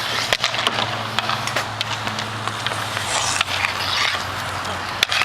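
Hockey game in play on a rink: scattered clacks and knocks of sticks, puck and skates, with a couple of sharper hits near the start and the end, over a steady low hum.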